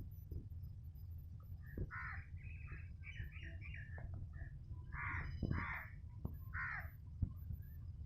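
Crows cawing in several bouts: a run of quick short caws a couple of seconds in, then a few longer caws in pairs.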